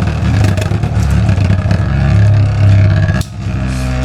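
Beyblade spinning tops whirring and clashing in a plastic stadium: a loud buzzing hum with scattered sharp clacks from hits, dropping in level about three seconds in as the spin dies down.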